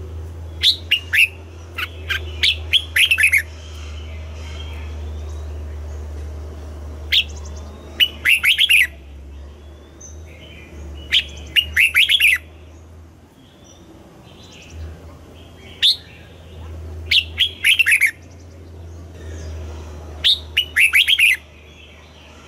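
Red-whiskered bulbul singing: short, bright phrases of quick sharp notes with falling sweeps, repeated about every four seconds. A steady low hum runs underneath.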